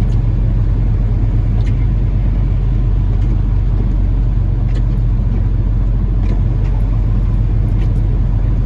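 Peterbilt 579 semi-truck running steadily with a low rumble, its engine brake switched off as it rolls slowly to a stop. A few faint clicks sound now and then.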